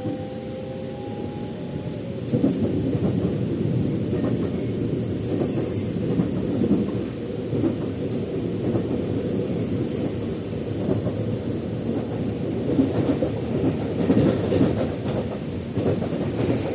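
Metro train running on its track: a faint whine rising in pitch for the first two seconds or so as it gathers speed, then steady rumbling and clattering of wheels on rails with frequent knocks.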